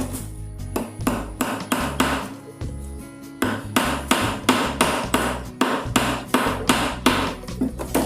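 Hammer tapping a small N-shaped wire staple into the wooden frame of a spring bird trap: a run of sharp metal-on-wood strikes, about two to three a second, harder from about halfway through.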